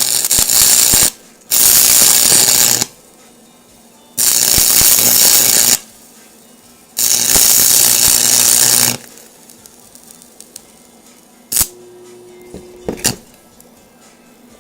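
Stick (arc) welder running on steel in four bursts of loud, crackling sizzle, each a second or so long with short pauses between. Near the end, a couple of sharp clicks and a brief steady tone.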